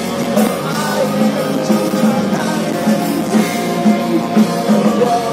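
Live rock band playing: electric guitars and drums over a steady, pulsing beat of about two low notes a second.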